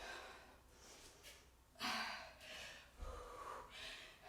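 A woman breathing hard while exercising: sharp, unvoiced exhales and inhales, the loudest about two seconds in, with a low thump about three seconds in.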